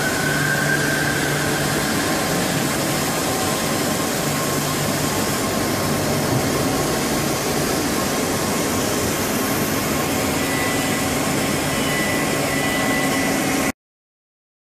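Mazak Integrex 70Y/3000 CNC lathe running: a steady machine noise with a low hum, joined by a thin high tone past the ten-second mark, cutting off suddenly near the end.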